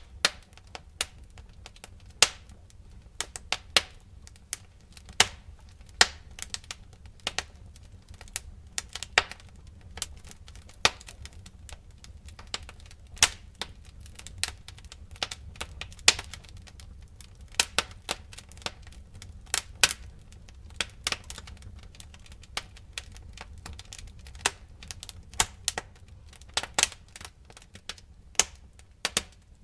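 Wood fire crackling, with irregular sharp pops and snaps, several a second, over a low steady rumble of the flames.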